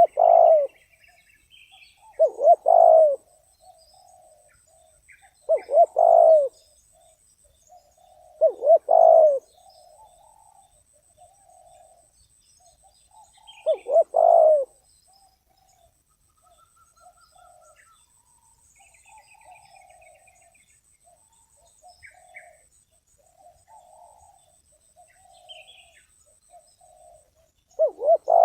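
Spotted dove cooing: loud short coo phrases every few seconds through the first half, then fainter cooing for a stretch, and one more loud phrase at the very end. A few thin, high chirps from other birds come in between.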